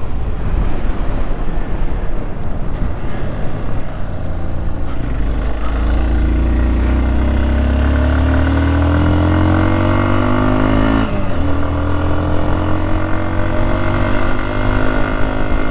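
Hero XPulse 200 motorcycle's single-cylinder engine pulling under way. Its pitch rises as the bike accelerates, drops sharply at a gear change about eleven seconds in, then climbs again. The first few seconds are mostly rushing wind on the microphone.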